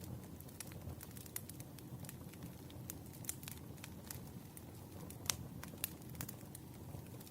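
Campfire crackling: a wood fire with many sharp, irregular pops and snaps over a low rumble, with two louder pops a little past the middle.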